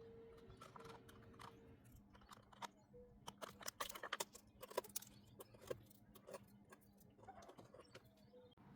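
Faint, scattered light clicks and taps of a plastic engine-oil bottle being handled and opened.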